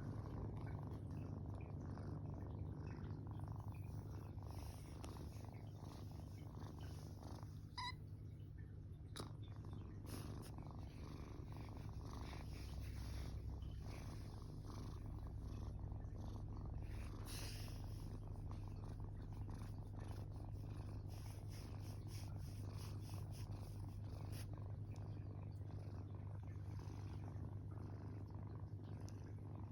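Tortoiseshell kitten purring steadily and continuously, close up.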